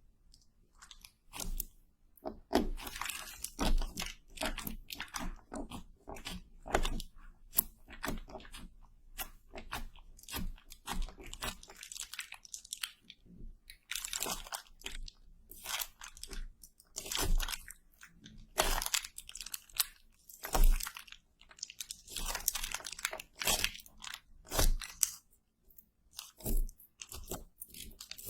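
Close-miked ASMR crunching: irregular crisp crunches and sharp clicks, some much louder than the rest, with short quiet gaps between them.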